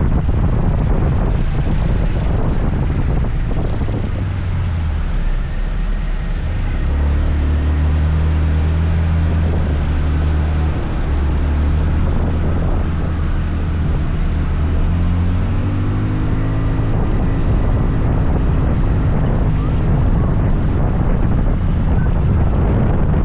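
Wind buffeting the microphone while riding a scooter, a dense low rumble throughout. Through the middle stretch a steady engine hum comes through, shifting up and down in pitch.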